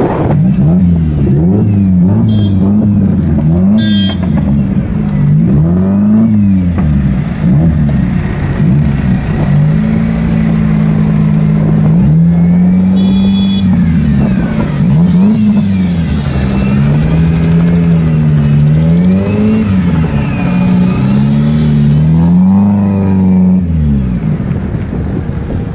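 Sports car engine and exhaust revving up and down over and over, each rev rising and falling over a second or two, with a few longer stretches held at steady revs.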